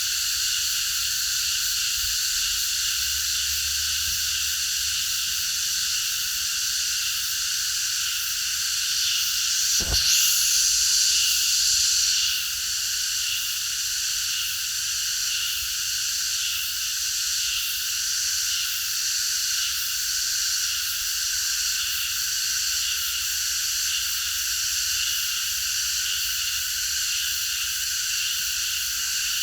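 Chorus of many cicadas buzzing together in a dense, steady, high-pitched drone. About ten seconds in, a brief low knock, then the buzzing swells louder for about two seconds before settling back.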